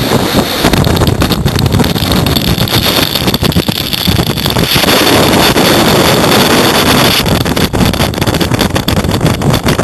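Strong thunderstorm wind buffeting the microphone with a loud, continuous rumble, while wind-driven rain and hail pelt around it in many sharp ticks.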